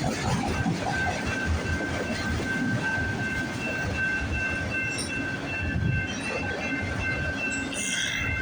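Freight train cars rolling past close by: a steady rumble of wheels on rail with irregular clacks and thumps, a thin steady high tone running through it, and a short higher-pitched burst near the end.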